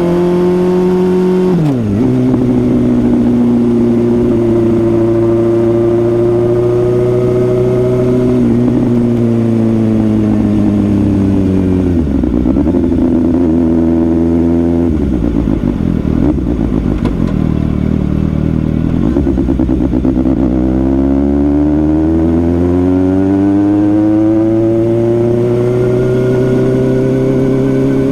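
Suzuki GSX-S750's inline-four engine under riding load, the revs rising and falling through gear changes: a sharp drop in pitch about two seconds in, a fall to low, uneven revs in the middle as the bike slows, then a long climb in revs near the end.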